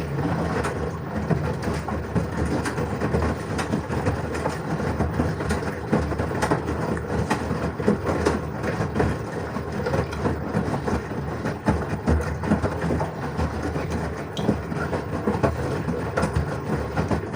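LG washing machine running its first wash after a drum cleaning: a steady rumble with many small irregular knocks and rattles that starts and stops abruptly.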